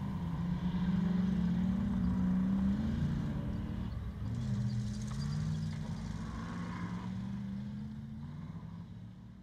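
Off-road safari racing car's engine pulling hard, its pitch climbing, dropping at a gear change about four seconds in, then climbing again. The sound fades near the end.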